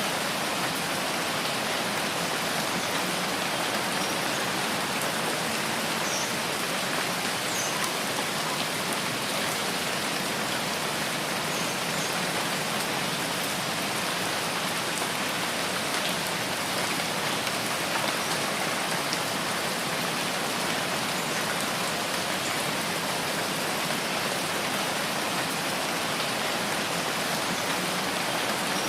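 Steady rain, an even hiss of many drops falling, with a few faint single drop ticks.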